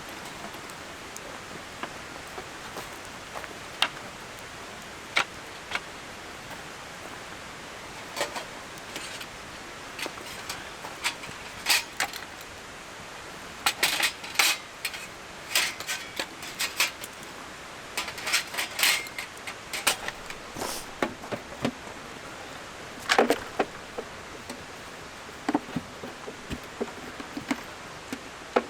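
Scattered sharp clicks and light knocks of small objects, in quick clusters around the middle and again later, over a steady background hiss.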